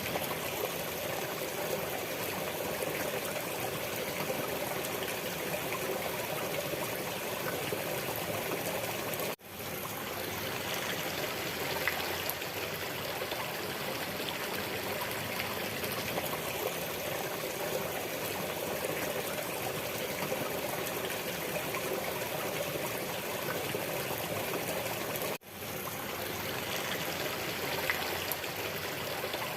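Water flowing in a stream, a steady rushing trickle. It cuts out for an instant twice, about nine seconds in and again about three-quarters of the way through.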